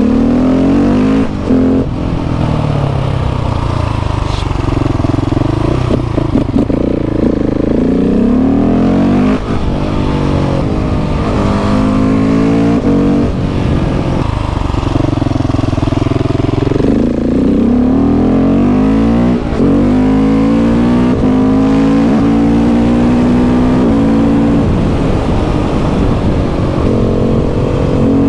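KTM 690 SMC R's single-cylinder engine through a Leo Vince exhaust, heard from on the bike: it revs up in pitch again and again as it pulls through the gears, then drops back as the throttle closes.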